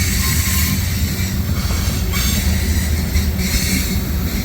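Freight cars of a long mixed freight train rolling past at close range: a steady rumble and rattle of steel wheels on the rail.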